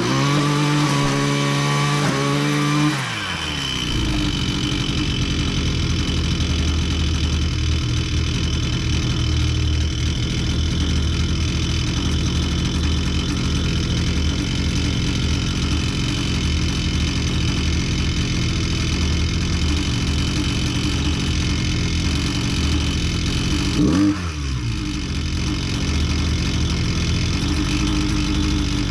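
Husqvarna 129L string trimmer's two-stroke engine running after its loose intake insulator block was tightened. It is held at higher revs for about three seconds, then drops to a steady idle. About four seconds from the end it blips up and back down once, then settles to idle again.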